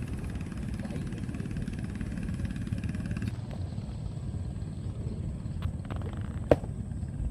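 A small engine running steadily with a low, fast, even pulse. The higher hiss drops away about three seconds in, and one sharp click comes near the end.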